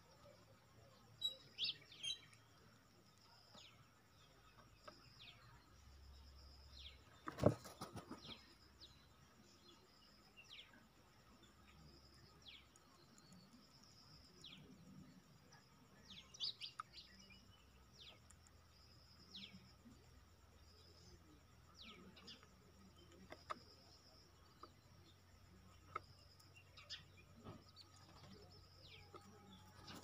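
Small birds chirping: short, high, falling calls repeated every second or two, quiet overall. A sharp knock cuts in about seven seconds in, and another comes right at the end.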